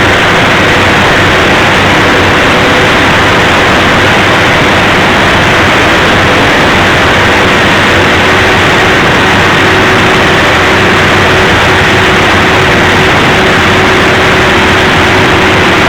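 Mitsubishi S16R-PTA V16 diesel generator engine running steadily at constant speed: a loud, even drone with a faint steady hum in it, unchanged throughout.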